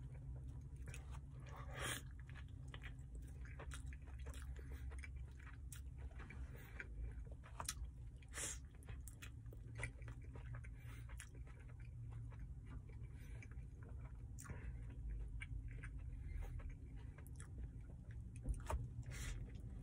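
A person chewing a mouthful of steak burrito close to the microphone, with irregular wet mouth clicks and smacks. A steady low hum runs underneath.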